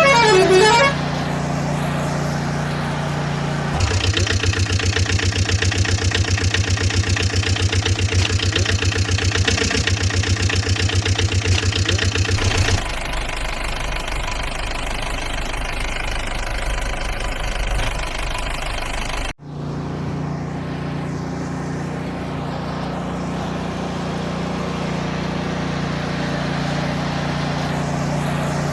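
Truck and tractor engine sounds, with a vehicle horn sounding in the first second. A fast pulsing engine run starts about four seconds in and gives way abruptly to a lower, steadier engine hum. That hum breaks off for an instant a few seconds later and then carries on steadily.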